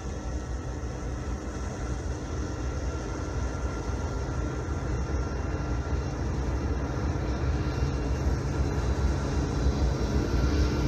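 Low, steady rumble of Union Pacific diesel freight locomotives approaching, growing gradually louder.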